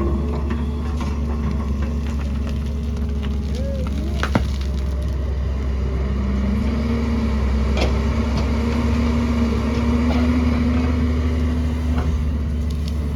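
Excavator's diesel engine running steadily under load, its note stepping up a little about halfway, with a sharp knock about four seconds in and a few fainter clicks.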